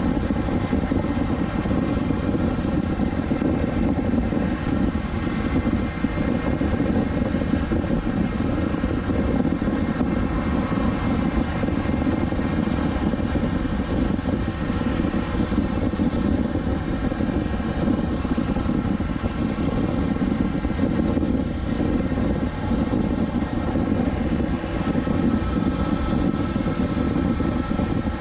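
2020 BMW S1000XR's inline-four engine running at a steady cruise, its even engine tones held level throughout over a steady rushing noise.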